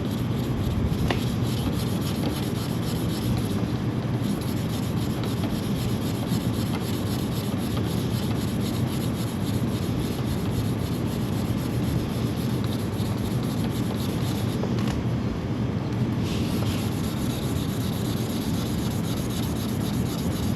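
Sanding on the paintwork of a Kawasaki Ninja H2's bodywork to take out scratches: a continuous rough rubbing that runs without a break.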